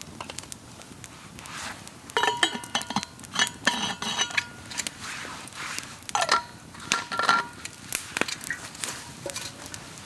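Metal cookware and utensils clinking and scraping, with short ringing tones, in two spells: from about two to four and a half seconds in, and again around six to seven and a half seconds, among scattered light knocks.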